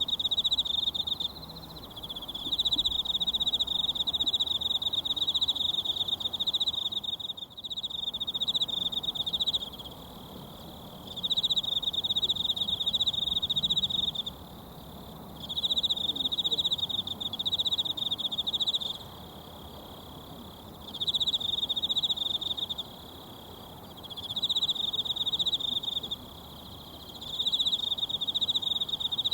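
An insect trilling high and fast in repeated phrases of a few seconds each, broken by short pauses, over the soft rush of a mountain stream.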